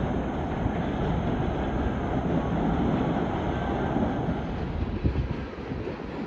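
JR Freight EF210 electric locomotive and its container wagons running through on the rails: a steady rumble of wheels on track, with a couple of sharp wheel knocks about five seconds in.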